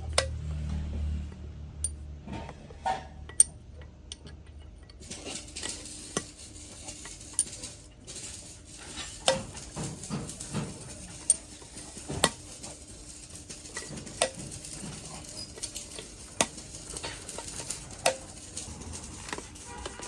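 Irregular metallic clinks and knocks, about one every second or two, some of them ringing briefly, as of hand tools and small engine parts being handled and set down.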